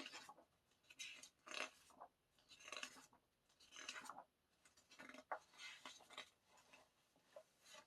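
Paper rustling as the pages of an album photobook are turned and handled: a series of soft swishes, roughly one a second.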